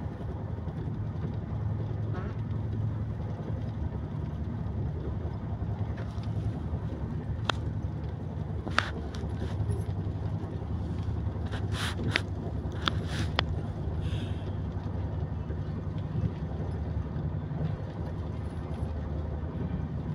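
Steady low rumble of a passenger train running at speed, heard from inside the coach. A few sharp clicks come through in the middle.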